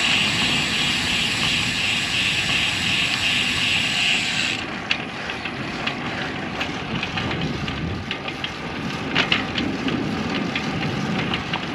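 Bicycle riding noise: wind on the microphone and the rumble of the tyres on the trail, with a steady high hiss over the first four and a half seconds that cuts off sharply, then scattered light clicks.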